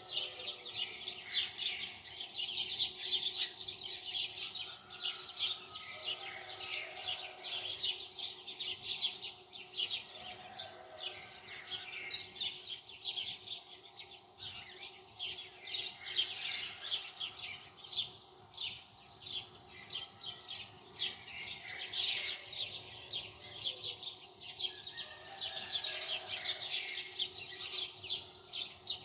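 Birds chirping rapidly and continuously, over a faint steady hum.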